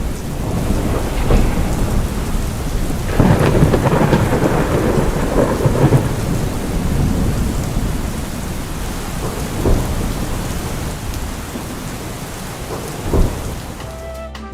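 Steady heavy rain with rolling thunder. A long rumble swells about three seconds in and fades, and shorter claps come near ten and thirteen seconds.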